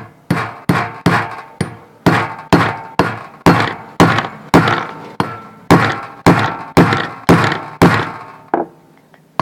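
Repeated hammer blows, about two a second, driving a bearing off a ceiling fan's shaft, each strike ringing briefly like struck metal. The bearing is being knocked out without a puller.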